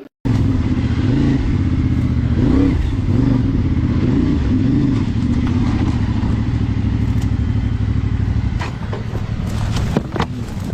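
Motorcycle engine running steadily, starting abruptly just after the beginning.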